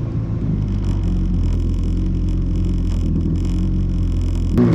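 Yamaha FX Cruiser HO WaveRunner's four-cylinder four-stroke engine running steadily, with a short click near the end.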